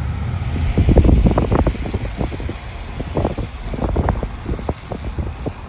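A car driving with steady low road rumble and wind noise, broken by a run of irregular short thumps and buffets, loudest about a second in.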